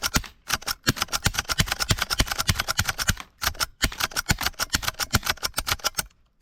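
Rapid gunfire, about nine shots a second, in long strings broken by a few short pauses, stopping shortly before the end.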